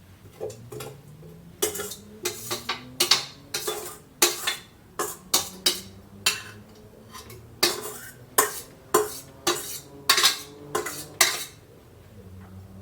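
A spoon clinking and scraping against a cooking pot as food is dished out: a long irregular run of sharp knocks, about two a second, that stops near the end.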